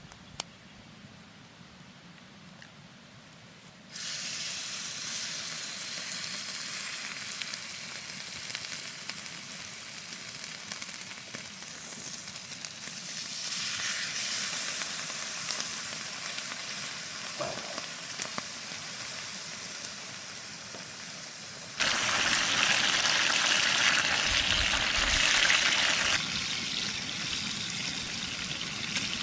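Beef steak sizzling in a hot frying pan over a campfire. The sizzle starts suddenly about four seconds in, grows louder partway through, is loudest for a few seconds about three-quarters of the way in, then eases.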